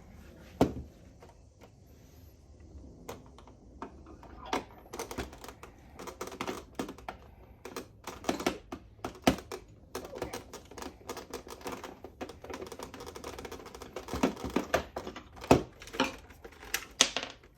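Irregular small clicks and taps of a screwdriver and screws against a toy saxophone's hard plastic casing as the screws are worked out. The clicks are sparse at first, then come thick and fast from about four seconds in.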